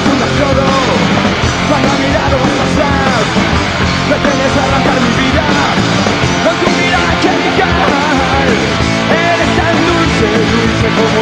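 Punk rock band playing live, a loud instrumental passage between sung lines: electric guitars, bass and drums.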